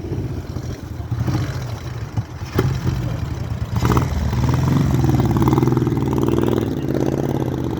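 Moto Guzzi motorbike engine in a Morgan-copy car running, its note getting louder and fuller about four seconds in and then holding steady.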